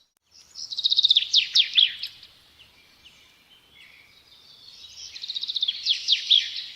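A songbird singing two phrases about four seconds apart, each a fast trill of high repeated notes that ends in a few sharp downward-sweeping notes.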